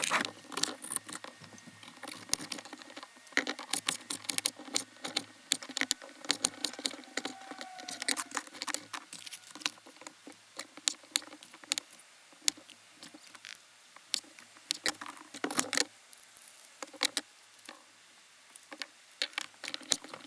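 A knife chopping vegetables on a cutting board: irregular sharp taps, some in quick runs, over a faint steady hum.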